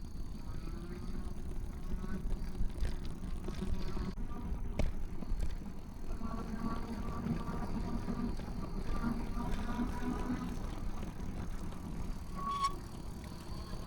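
Wind rush and road rumble while riding an electric recumbent bike, with a faint wavering tone partway through and a short high beep-like tone near the end.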